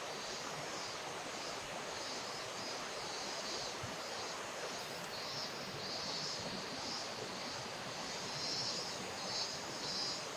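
Steady rush of flowing river water. A high buzzing sound pulses on and off on top of it, stronger in the second half.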